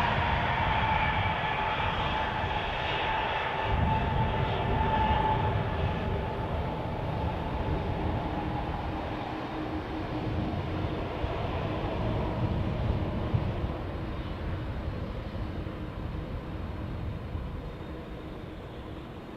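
Airbus Beluga cargo jet's engines at takeoff power: a steady jet rumble with whining tones that slowly fades away.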